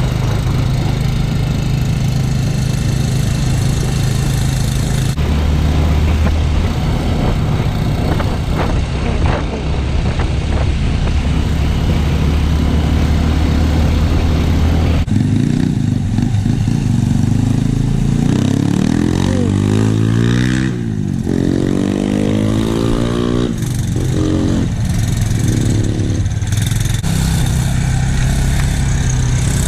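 Dirt bike engine running under way on a trail, its note shifting abruptly about five and fifteen seconds in, then revving up and down repeatedly in the middle of the stretch.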